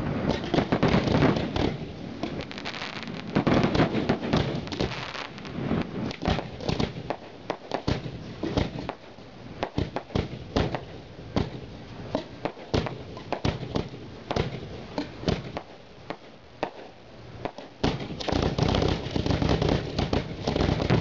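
Aerial fireworks display: shell bursts and many sharp pops in quick succession. They come thickly at the start, thin out through the middle, and build up again near the end.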